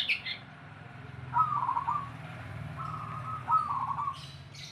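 Zebra dove (perkutut) cooing: two trilling song phrases a little over a second apart, each starting on a rising note and breaking into rapid repeated notes, over a steady low hum.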